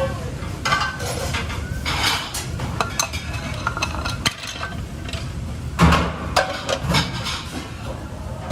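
Dishes and utensils clinking and clattering at irregular intervals, with a louder clatter about six seconds in, over a steady low hum.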